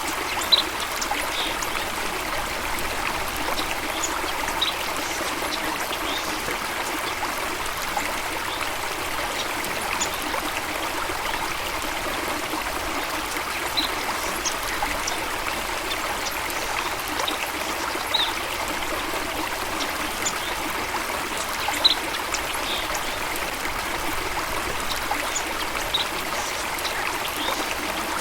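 Water flowing steadily in a stream or small waterfall, a continuous even rush, with occasional brief high-pitched blips scattered through it.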